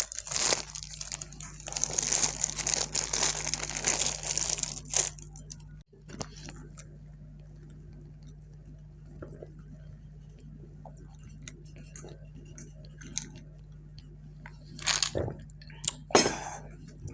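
Plastic bags rustling and crinkling for about five seconds, then a quiet stretch with a steady low hum and a few scattered small clicks and rustles.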